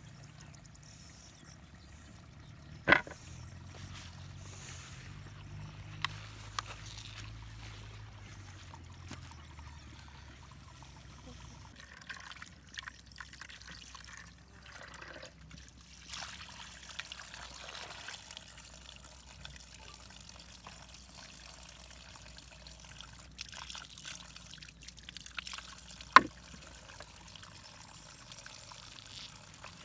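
Water trickling faintly, with two sharp knocks, one about three seconds in and one near the end.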